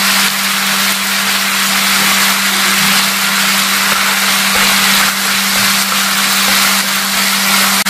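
Chicken and teriyaki sauce sizzling steadily in a frying pan as sliced green onion is stirred in with chopsticks, over a steady low hum.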